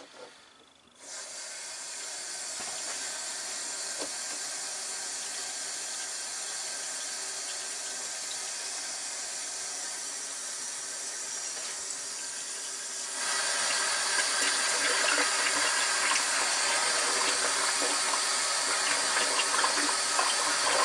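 Water running from a hose into the bottom of a dishwasher, filling it to test for leaks: a steady rushing hiss that starts about a second in and gets louder about two-thirds of the way through.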